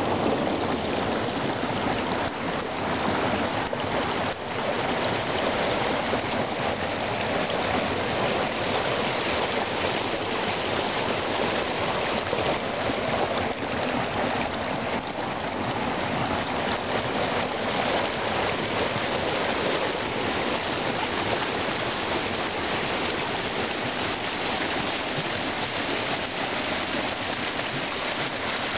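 Small waterfall of spring meltwater, the water rushing and splashing steadily.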